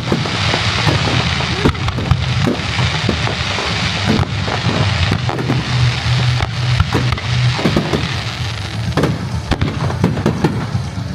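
Kagiya aerial fireworks bursting in a rapid barrage: many sharp bangs and crackles, several a second, over a steady low rumble.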